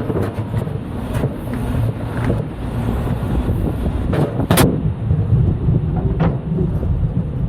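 Semi truck's diesel engine running with a steady low rumble, with two sharp knocks, about four and a half and about six seconds in.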